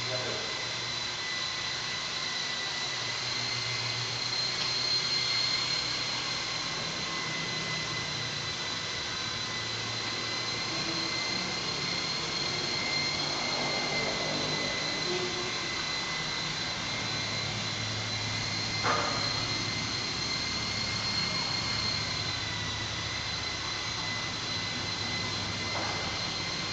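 Small remote-controlled aircraft flying, its electric motors and rotors making a steady high whine, with a single sharp click about two-thirds of the way through.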